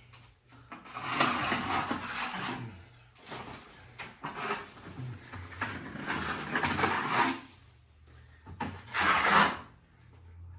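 A wide drywall knife scraping and spreading setting-type joint compound (hot mud) over a plaster wall, in long rasping strokes: two long ones and a shorter one near the end.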